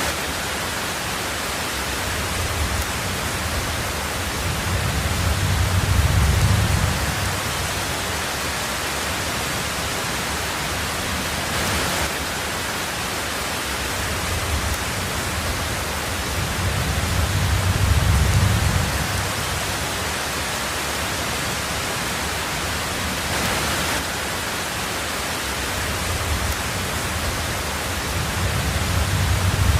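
Heavy rain on a tin roof, a steady hiss, with low thunder rumbles swelling and fading three times, about every twelve seconds.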